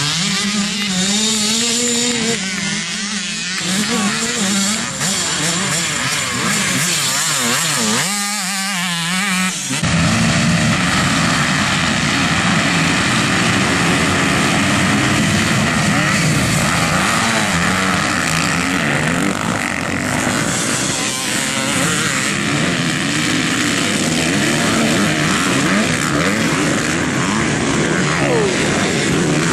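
Motocross bikes' engines running on a track, with the pitch rising and falling as riders rev through the throttle. About ten seconds in it becomes louder and denser, like several bikes at once.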